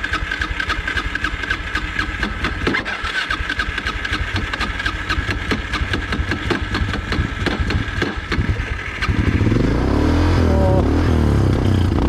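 Trail motorcycle engine running with rapid firing pulses, then revved up hard and louder about nine seconds in, the pitch rising and falling.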